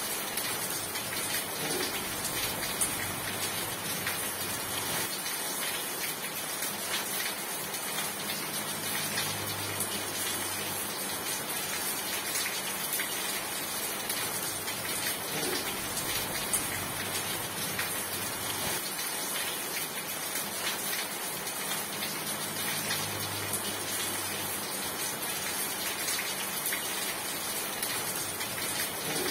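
Steady rain falling, an even dense patter of drops with no letup. A faint low hum fades in and out twice underneath.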